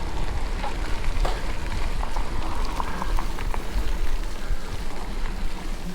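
Steady rushing noise of riding an e-bike along a wet, muddy trail in the rain: wind rumble on the microphone, with small scattered crackles and patters from tyres and raindrops.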